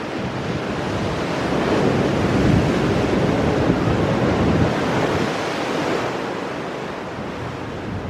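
Ocean waves breaking and washing over rocks, a rushing surge that builds about two seconds in and fades away over the last few seconds, with some wind on the microphone.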